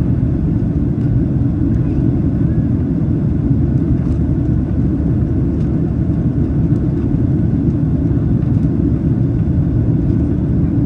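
Cabin noise of a Boeing 737-800 climbing after takeoff: a steady, loud, low rumble of engine and air noise.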